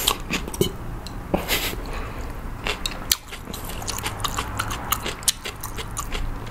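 Close-miked chewing of a mouthful of food, with irregular wet mouth clicks and smacks.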